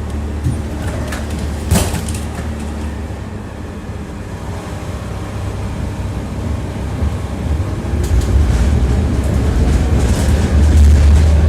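Tram wheels rumbling on the rails, heard from inside the car, with one sharp knock about two seconds in. The sound eases in the middle and grows louder again from about eight seconds in.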